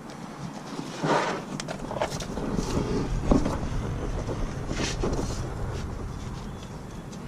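Scattered clicks, knocks and scrapes of hand tools working on the brake parts, with a louder scrape about a second in. A low rumble builds from about two and a half seconds in.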